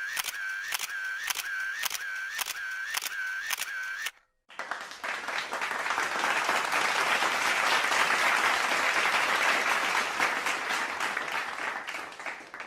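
Camera shutter sound effect clicking in quick repeated shots, about two and a half a second, until about four seconds in. Then a crowd applauding, swelling and then fading near the end.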